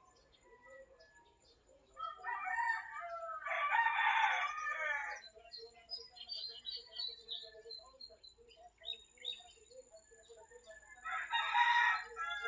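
A rooster crowing twice: one long crow starting about two seconds in and another near the end. Small birds chirp faintly in between.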